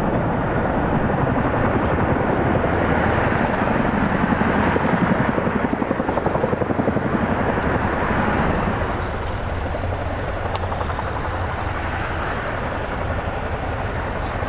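Military helicopter turbines and rotor blades running loud, with a fast, even rotor beat that swells, then drops back a little about two-thirds of the way through.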